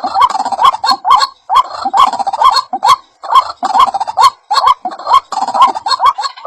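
White-breasted waterhen (ruak-ruak) calling: a rapid repeated series of short rising "kru-ak" notes, about three a second, in runs with brief pauses between them.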